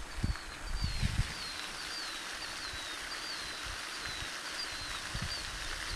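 A bird calling over and over in short, high, wavy chirps, evenly spaced at just under two a second, over a light outdoor hiss. A few low thumps of handling noise come in the first second or so.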